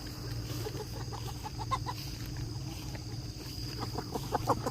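Pioneer broiler meat chickens clucking in short, quick calls, a cluster about a second in and another near the end.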